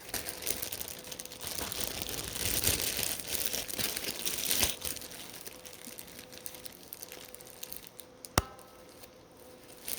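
Crinkling of a plastic bread bag being handled, loudest in the first half, then quieter, with a single sharp click near the end.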